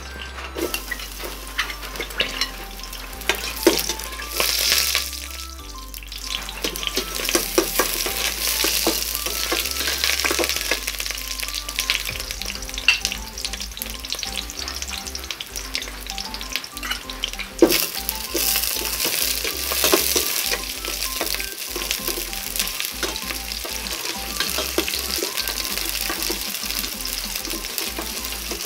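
Chopped garlic sizzling in hot oil in a stainless steel pot, a steady hiss that builds up after the first few seconds. Many short clicks and scrapes of a utensil stirring against the pot run through it.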